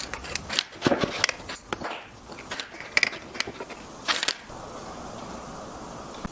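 Irregular knocks and clacks of wooden pieces being handled at a workbench, then a steady hiss sets in about four and a half seconds in.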